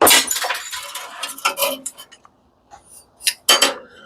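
Small brass bolts and metal parts clattering and clinking as they are handled: a sudden burst of rattling that lasts about a second and a half, then scattered clicks and two sharp knocks near the end.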